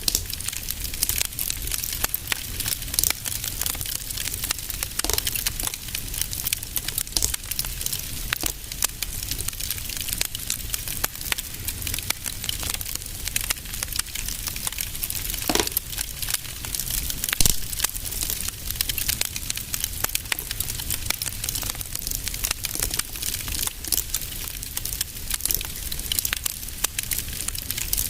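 Wood fire in a fireplace crackling steadily, with dense small crackles and an occasional louder pop over a low rumble of the burning.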